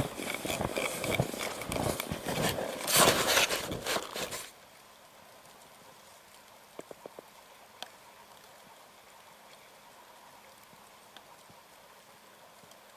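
Footsteps crunching through deep powder snow, with rough rustling and wind noise on the microphone. About four seconds in, the sound cuts off suddenly to a quiet hush with a few faint clicks.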